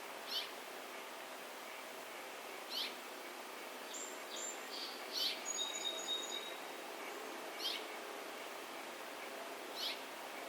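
Songbirds calling at a feeder: one bird gives a short, sharp chirp about every two and a half seconds, five times, while a few high, thin whistled notes from another bird come in the middle, over a steady outdoor hiss.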